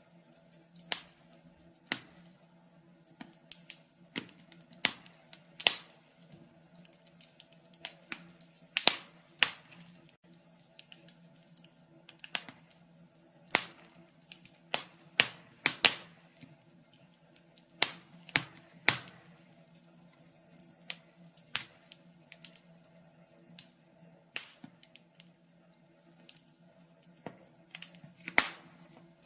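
Wood logs burning in a fireplace, crackling with irregular sharp pops and snaps, some louder than others, over a faint steady low hum.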